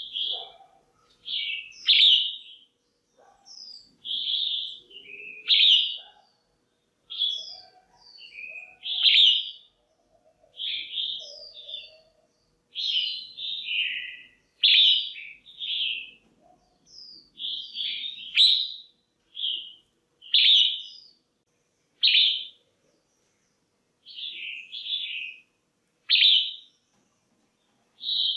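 Female red-whiskered bulbul calling: short, sharp chirping notes in quick clusters, one or two clusters a second, repeated without a break.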